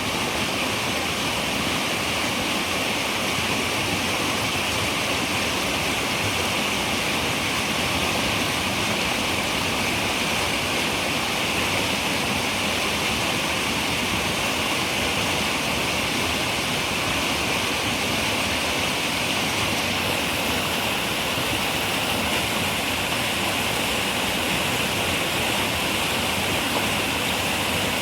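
Running river water rushing steadily, an even hiss without breaks.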